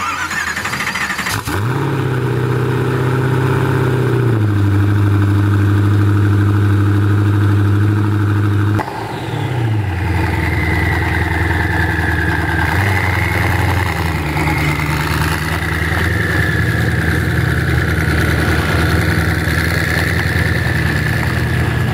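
Koenigsegg One:1's twin-turbo V8 starting with a sharp catch about a second and a half in, then running at a high, even fast idle. Near nine seconds the sound breaks off abruptly and picks up again at a lower idle, with a wavering high whine above it.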